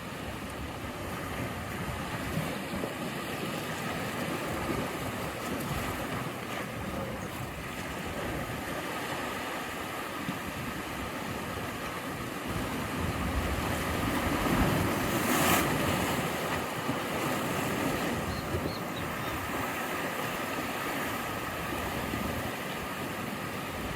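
Ocean waves breaking and washing on the shore, a steady rushing with one stronger surge about two-thirds of the way through, with wind on the microphone.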